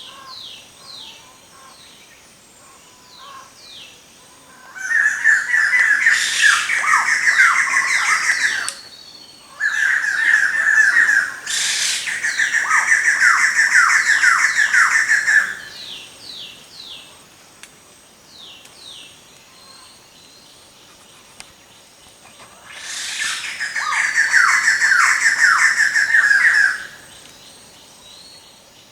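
Birds calling: loud bursts of rapid chattering song, each a few seconds long, come four times, starting about five, ten, twelve and twenty-three seconds in. Between the bursts, faint short chirps that fall in pitch repeat.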